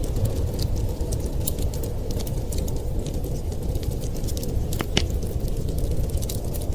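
Wood fire crackling in a fireplace: scattered sharp pops, one louder snap about five seconds in, over a steady low rushing noise.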